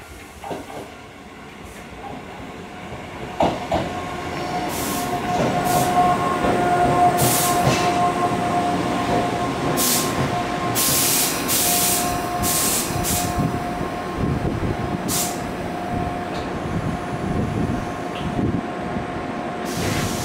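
Tobu 8000-series electric train pulling into a station platform and stopping. The rolling noise builds as it comes alongside, over a steady whine, with several short high hissing bursts while it slows. The whine carries on once it stands.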